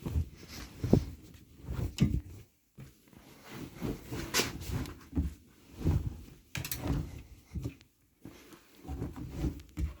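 Siemens WM14VG93 front-loading washing machine at the start of a wash: irregular thuds and clunks about once a second as the drum turns the bed linen, with a few sharper clicks.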